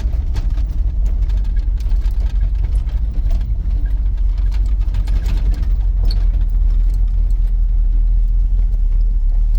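A 1983 GMC C2500 pickup's engine running at low speed, heard from inside the cab as a steady low rumble.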